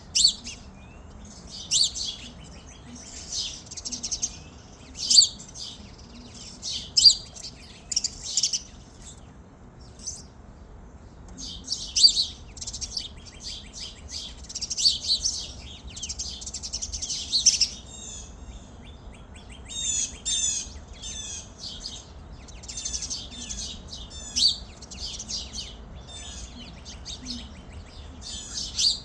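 Small songbirds chirping and twittering in repeated clusters of quick, high calls.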